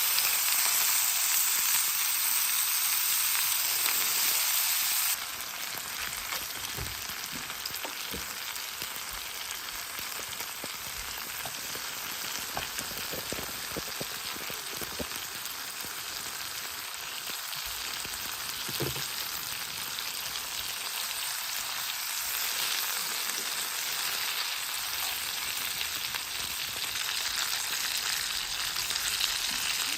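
Food sizzling in a frying pan, with a few light taps of a utensil. The sizzle drops suddenly in loudness about five seconds in and then goes on steadily.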